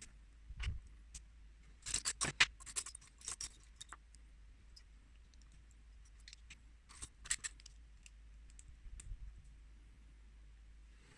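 Small plastic building bricks clicking and rattling against each other as they are handled, in two clusters of quick clicks, one about two seconds in and one about seven seconds in, with a few soft knocks between.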